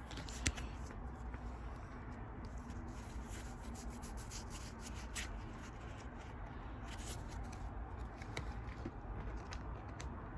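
Pokémon trading cards being handled and flipped through by hand: soft sliding and rubbing with scattered light clicks, over a low steady hum.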